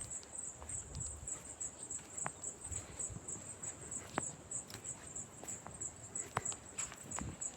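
High insect chirping pulsing about four times a second, over scattered light clicks and a few soft low thumps.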